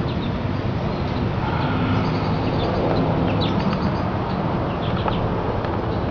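Honey bee swarm buzzing in a steady hum, with a few short bird chirps in the second half.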